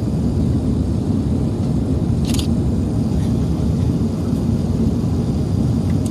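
Steady low rumble of an Airbus A380-861 airliner in flight, its GP7200 engine and airflow noise heard inside the cabin through a window-mounted microphone. A short sharp click about two seconds in.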